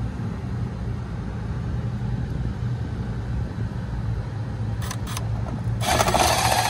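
Steady low machinery hum. About five seconds in come two short clicks, then a loud burst of harsh, hissing noise lasting about a second and a half.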